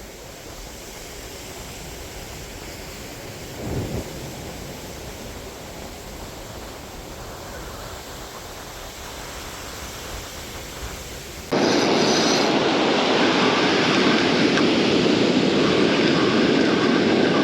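Steady rushing noise of wind and surf. About eleven seconds in it jumps abruptly much louder and stays loud, like wind buffeting the microphone.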